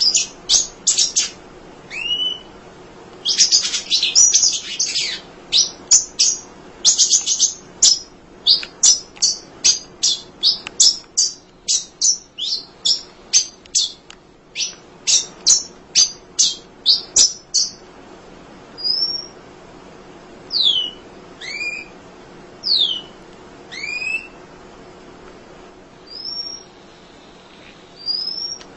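Munia (emprit) singing: a fast run of sharp, high chirps, about two a second, that gives way in the second half to spaced, slurred whistles sliding down or up in pitch.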